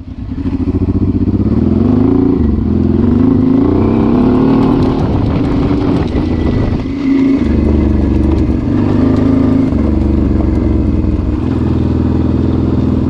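Honda Transalp's V-twin engine running under a rider on dirt, its pitch rising and falling as the throttle opens and eases, with a brief drop about seven seconds in.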